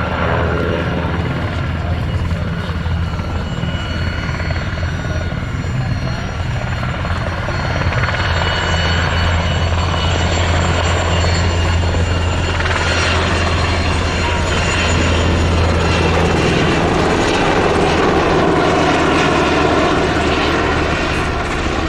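Helicopter in flight: a steady low rotor drone with a whining turbine note above it, strongest in the middle stretch.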